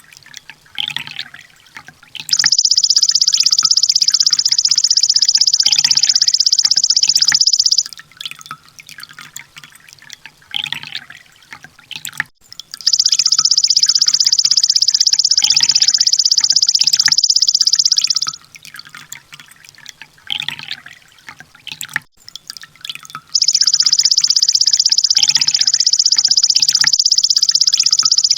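Sunbird song in a looped training recording: three long, loud, very rapid high trills ('tembakan') of about five seconds each, evenly spaced, with short chirps in between.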